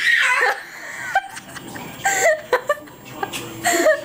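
Pet parrot calling in a run of short, pitch-bending squawks and chirps, a few at a time with brief gaps between them.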